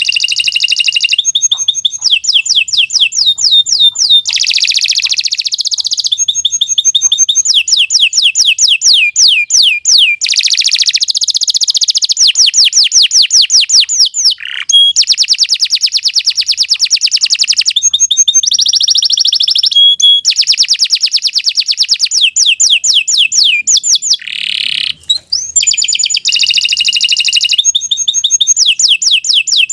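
Domestic canary singing a long, nearly unbroken song of fast trills, each phrase a rapid run of repeated high notes, changing to a new phrase every second or two.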